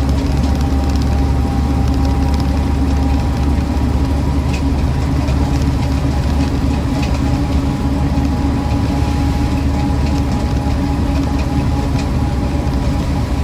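1966 Land Rover Series IIa 88-inch's 2.25-litre four-cylinder petrol engine and drivetrain running under way at a steady speed, with a constant low drone and no revving.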